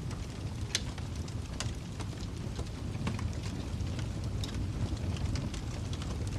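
Wood fire crackling in a fireplace: irregular sharp pops and snaps over a steady low rumble of the flames, one louder pop about a second in.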